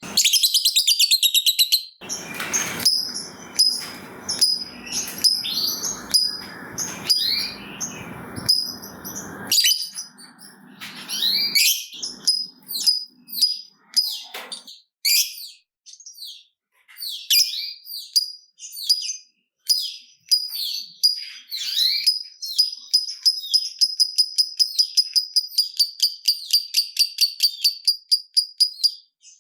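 Lovebird calling: sharp high chirps and squeaks, some of them rising or falling. From about 22 s these give way to a long, fast, even chattering trill, the drawn-out 'ngekek' that lovebird keepers prize. A hiss sits under the calls in the first third.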